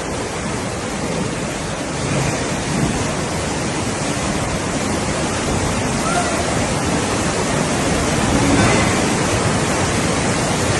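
Floodwater rushing into and through a store: a loud, steady rush of water.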